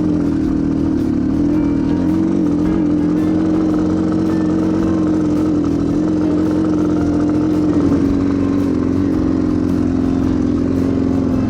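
Yamaha TTR230's single-cylinder four-stroke engine running at a steady, slightly wavering speed. It is running poorly, which the owner puts down to a weak or bad battery.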